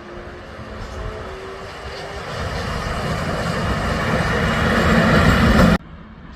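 Train approaching, its rumble and hiss growing steadily louder as it nears, then cut off abruptly near the end.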